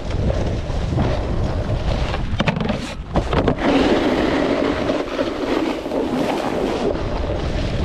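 Wind buffeting the microphone of a rider's POV camera during a snowboard run, over the hiss and scrape of the board sliding on snow, which thickens from about three and a half to seven seconds in.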